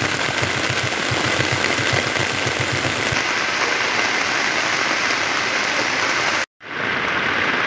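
Heavy rain pouring onto floodwater, a dense steady hiss. Under it, for the first three seconds, a low throb pulses several times a second. The sound drops out completely for a moment near the end.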